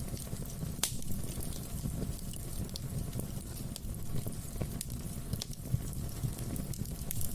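Wood fire in a fireplace burning with a steady low rumble and scattered sharp crackles and pops, one louder pop about a second in.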